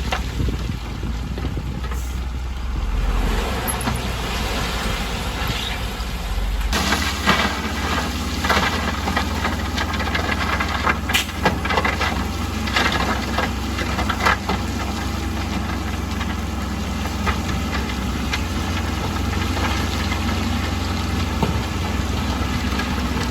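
Bulldozer's diesel engine running steadily. From about seven seconds in, a stretch of irregular knocks and clatter comes over it for several seconds.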